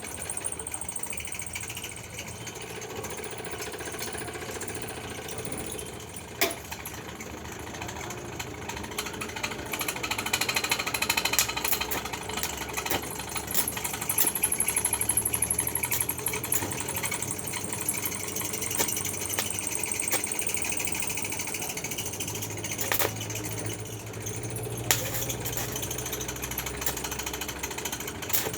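Electric arc welding on steel foundation bolts: a steady crackling, sputtering arc, with a few sharp knocks, one about six seconds in and two more near the end.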